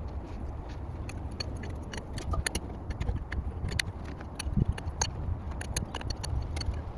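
An engine running low and steady, with irregular sharp metallic clinks and clanks of heavy steel parts over it.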